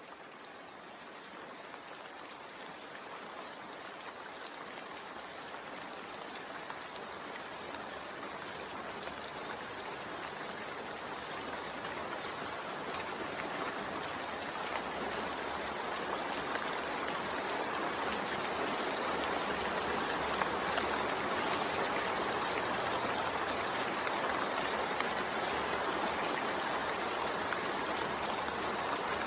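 Steady rain falling, an even hiss that fades in gradually over the first fifteen seconds or so and then holds level.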